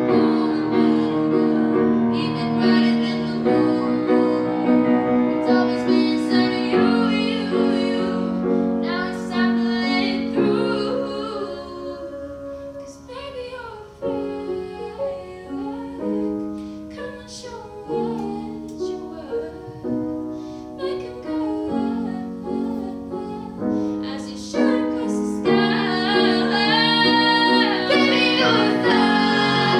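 A woman's voice singing a melody with piano accompaniment; the music drops to a softer passage about a third of the way in and builds back up louder near the end.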